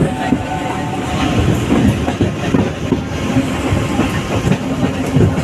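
Train running on the rails, heard from inside a carriage by the window: a steady rumble with irregular clatter of the wheels.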